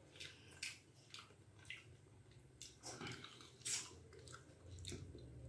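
A person chewing a bite of fried chicken breast, faint, with soft scattered clicks and smacks.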